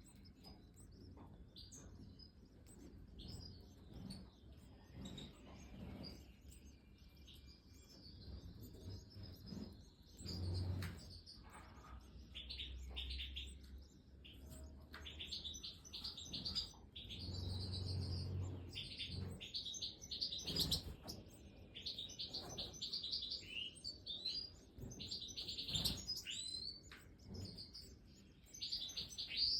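European goldfinches chirping: rapid runs of short, high chirps in clusters, with a few low dull thumps in between.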